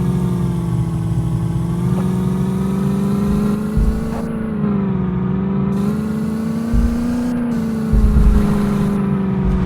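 A motor running steadily, its hum drifting slightly up and down in pitch, with a few low thumps.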